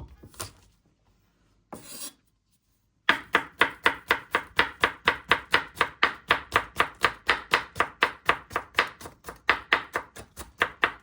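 Kitchen knife chopping garlic with quick, even strokes, about five a second, starting about three seconds in.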